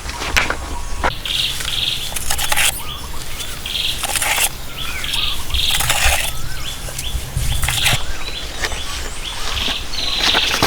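Birds chirping and calling, repeated short high chirps with some wavering song, over a series of irregular sharp knocks.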